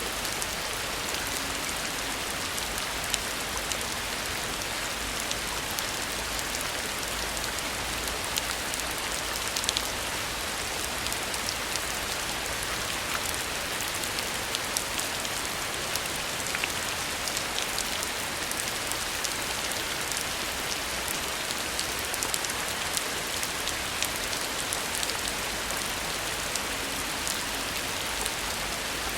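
Heavy rain falling steadily, a dense even hiss scattered with frequent sharp taps of individual drops striking.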